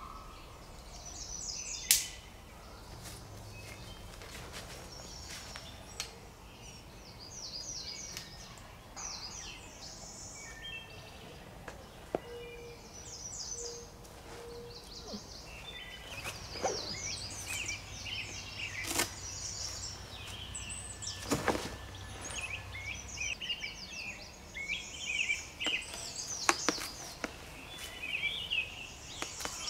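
Small birds chirping again and again in high quick bursts, with a few sharp knocks and clicks of gear being handled at a campsite, the loudest about two seconds in and near the end.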